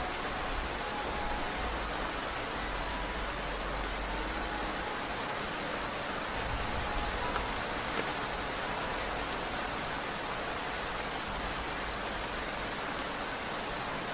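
Heavy rain falling steadily, an even rushing noise with occasional faint drop ticks.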